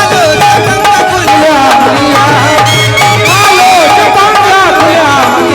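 Live folk-style Bhimgeet music from a stage band: a bending melodic lead line over hand-drum (tabla and dholak) accompaniment, between sung lines.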